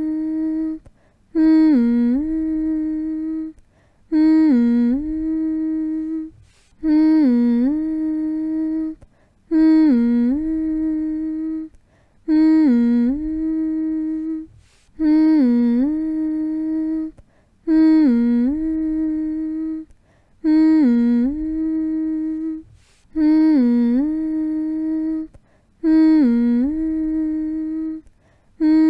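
A person humming the same short phrase over and over, about ten times: each hum dips in pitch and comes back up, then holds one steady note for about two seconds before a brief pause.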